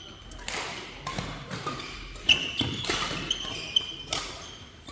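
Badminton doubles rally: several sharp racket hits on the shuttlecock, the loudest about two seconds in, mixed with short high squeaks of court shoes on the hall floor.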